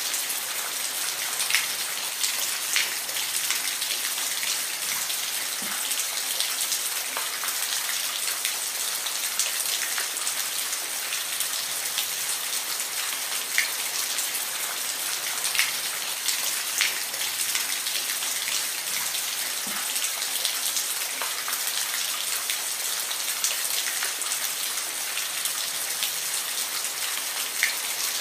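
Steady rain falling, an even hiss with individual drops ticking sharply on a hard surface every second or so.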